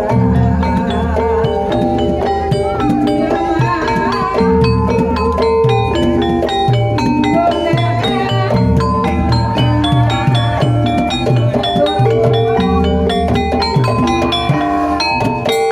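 Javanese gamelan music for an ebeg (kuda lumping) dance: metallophones play a repeating melody over steady drum strokes and deep, regularly recurring low gong-like tones.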